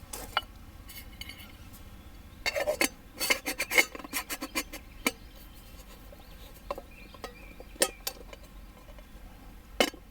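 Metal camp gear being handled, clinking and scraping: a dense run of clicks about two and a half to five seconds in, then scattered single clicks.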